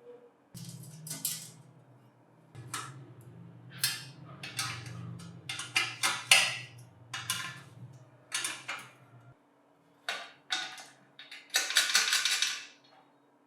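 Metal parts of a bench grinder's electric motor clinking, knocking and scraping against each other as they are handled and fitted during assembly, with a longer scrape near the end. A low hum sounds under the first two-thirds and stops suddenly.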